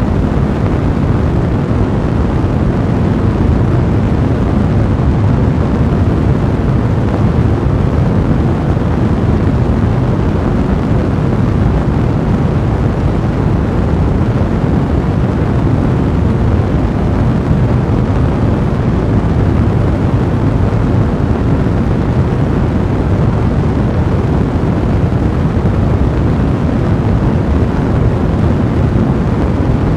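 Fire blaze burning with a steady, deep rushing noise, used as a continuous white-noise backdrop.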